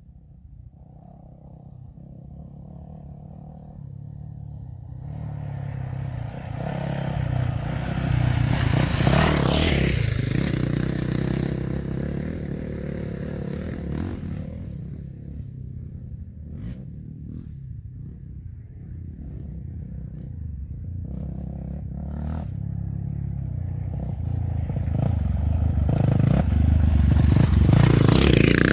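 Off-road race trucks passing at speed: the engine grows louder and peaks about nine seconds in, then fades, and a second truck builds up and passes near the end.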